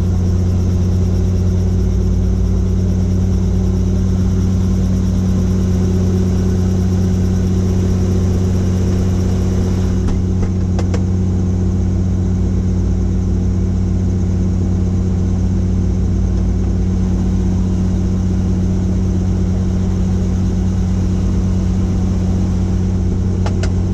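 Helicopter running steadily: a loud, even drone with a deep constant hum, and a couple of faint clicks about halfway through and near the end.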